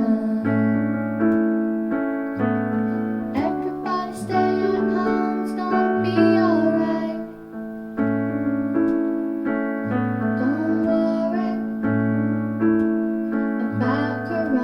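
Electric piano or keyboard music: sustained chords over a low bass note that repeats about once a second, with a melody line that slides between notes.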